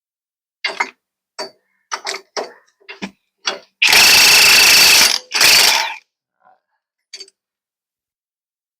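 A few sharp metal clinks and knocks from tools and suspension parts, then two bursts from an impact wrench working a bolt loose: a long one of about a second and a short one right after.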